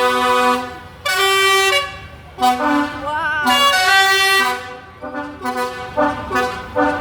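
A musical horn on a passing parade vehicle playing a tune: a string of loud held notes that change pitch step by step, with short gaps between them.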